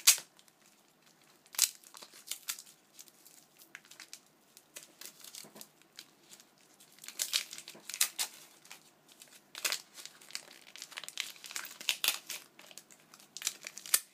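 Gift wrapping paper crinkling and tearing as a wrapped present is unwrapped by hand, in irregular bursts of rustling.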